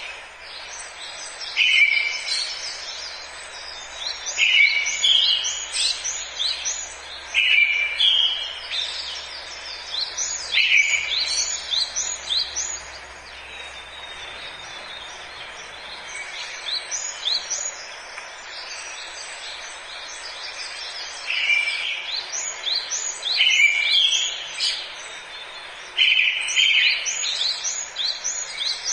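Forest birdsong: several birds singing and calling at once, with one song phrase that opens on a lower note and runs up into higher chirps, repeated every two to three seconds. The singing eases off for several seconds in the middle, then picks up again.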